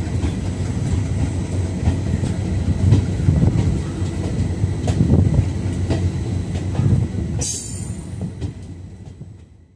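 Train running along the track, a steady low rumble with wheel clicks about once a second. A short hiss comes near the end, and the sound then fades out.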